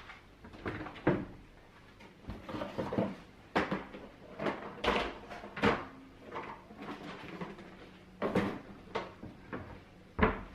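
Household handling sounds: a dozen or so irregular knocks, clatters and bumps, as of things being moved about, set down and shut, in a small room.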